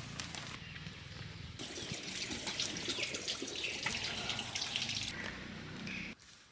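Water pouring and splashing for a few seconds, starting about a second and a half in and stopping suddenly, as when water is poured or something is washed in a basin.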